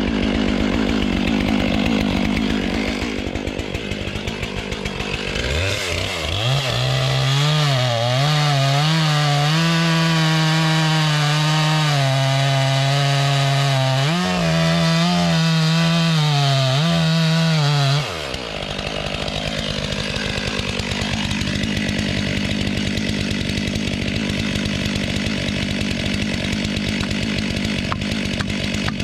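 Stihl MS 500i chainsaw, a fuel-injected two-stroke, running and bucking a log, its engine pitch dipping and recovering as the chain cuts. About two-thirds of the way through, the steady engine tone breaks off into a rougher, lower sound.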